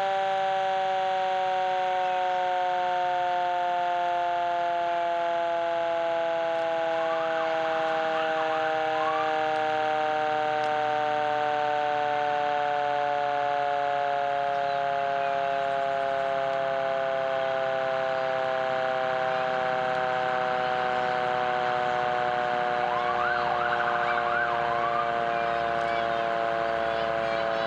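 Fire truck siren sounding a sustained chord of several tones that sinks slowly and steadily in pitch while staying at the same loudness.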